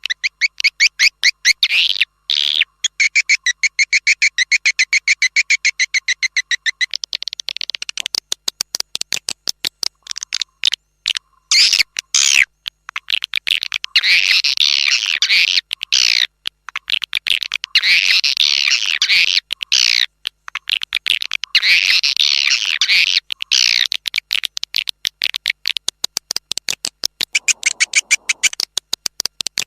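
Swiftlet lure call: a looped recording of edible-nest swiftlets twittering in fast trains of chirps, in phrases a few seconds long with short breaks between them. It is the kind of call played from a bird house's outside speakers to draw swiftlets in.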